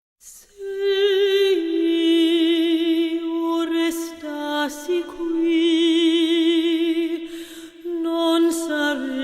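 A woman's classical voice singing slow, long held notes with wide vibrato, pausing briefly for breath between phrases.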